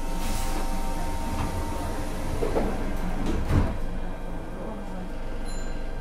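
Interior sound of a Sanyo 5000 series motor car: a steady electrical hum made of several even tones, broken by a few knocks, the loudest about three and a half seconds in.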